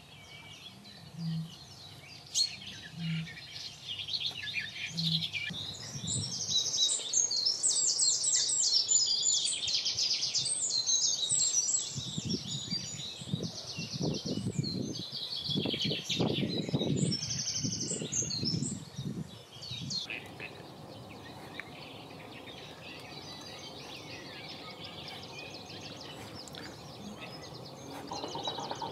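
Birds singing: after a few quiet seconds a loud, fast, trilling song starts about six seconds in and goes on for about fourteen seconds, then fades back to a quieter background of birdsong. Some low rumbling sits under the song during its second half.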